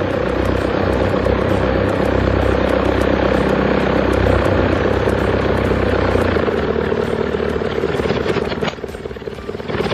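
Propeller aircraft engine running steadily, with a deep hum under a strong mid drone; it drops away about six and a half seconds in, leaving a weaker, rougher engine sound.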